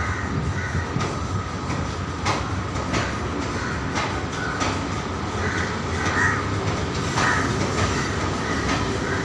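A train running on the rails: a steady rumble with sharp clicks about once a second as the wheels pass over rail joints, and a few faint short squeaks.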